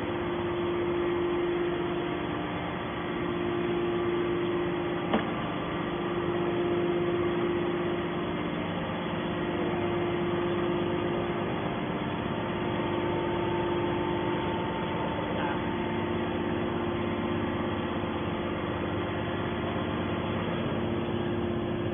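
Hydraulic scrap steel baler running: a steady machine hum with a strong even tone, and one sharp knock about five seconds in.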